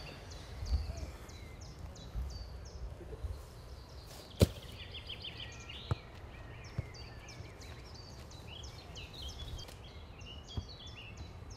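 Outdoor birdsong: many short, high chirps repeating throughout over a low rumble. A single sharp knock about four seconds in, and a few fainter taps later.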